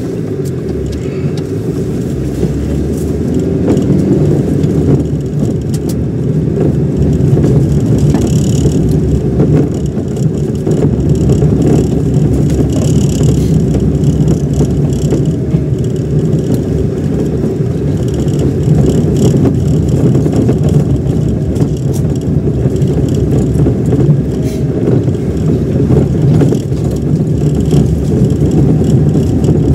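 Car driving, with a steady engine and road rumble that builds over the first few seconds as it gets under way, then holds.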